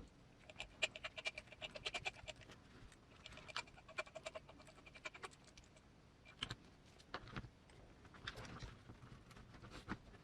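Small metal screws being worked with a hand driver on a 1/18 RC crawler's axle: two runs of quick light clicks with a faint ringing tone, then scattered separate clicks and taps of small parts being handled.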